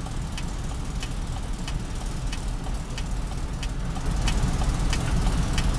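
Six-cylinder Mercedes truck diesel engine idling, with a regular light ticking about three times a second; it gets somewhat louder about four seconds in. The engine is running with cylinder 4 not firing, the fault being checked in a manual cylinder cut-off test.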